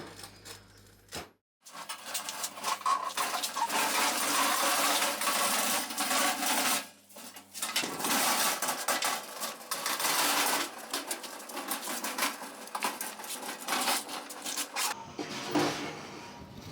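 Metal-inert-gas (MIG) welding arc crackling in bursts of a few seconds each that start and stop abruptly, as weld beads are laid on a steel frame.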